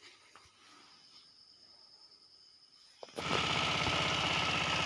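Sifang 15 hp power tiller's single-cylinder diesel engine starting about three seconds in and settling straight into a steady, evenly pulsing run, its first run after the rocker arms were refitted and the tappets adjusted.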